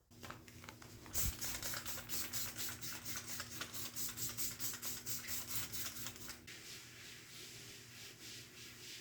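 Rapid repeated rubbing or scrubbing strokes, about four a second, over a steady low hum. Both stop about six seconds in, and softer strokes carry on after that.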